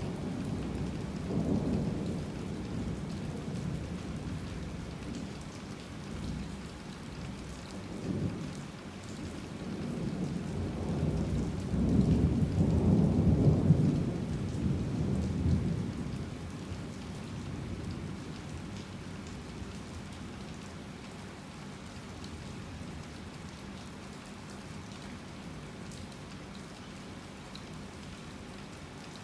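Heavy rain falling steadily, with rolling thunder rumbling low: a few smaller rumbles early on, then a long, louder roll around the middle that dies away, leaving only the rain.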